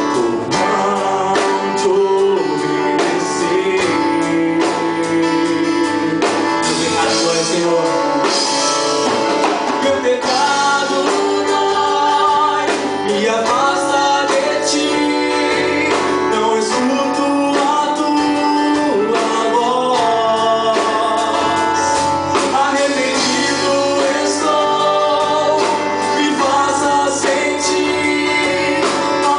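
Portuguese-language gospel song performed by a band: singing over guitar and instrumental accompaniment, steady and loud.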